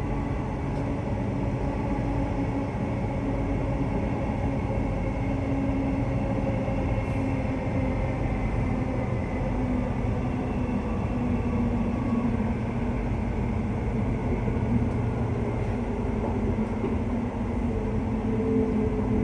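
Cabin noise of a Brisbane suburban electric train running along the line: a steady rumble with a low, even hum from the running gear.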